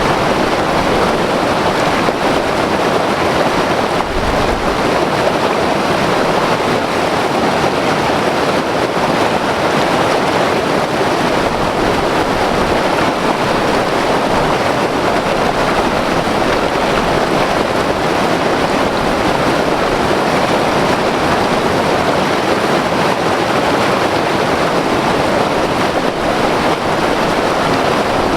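White-water river rushing over rocks, a steady, unbroken churning roar of water.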